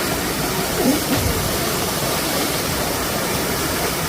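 Waterfall rushing: a steady, even roar of falling water, with faint voices briefly about a second in.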